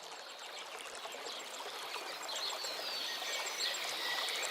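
Faint running water, a stream or trickle, with small bird calls coming in about halfway through.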